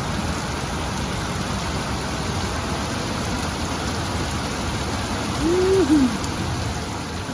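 Heavy rain falling steadily in a soaking downpour. About five and a half seconds in, a short low hoot-like tone rises and falls once over the rain.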